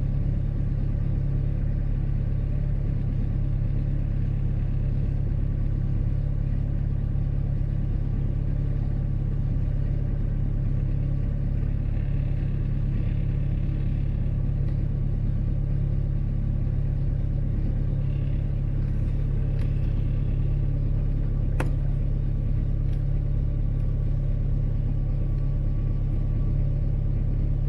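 Motor boat's engine running steadily, a constant low drone heard on board. A single sharp click about 22 seconds in.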